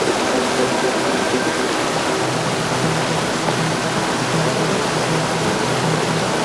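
Steady heavy rain, an even hiss. A faint low pulsing hum comes in about two seconds in.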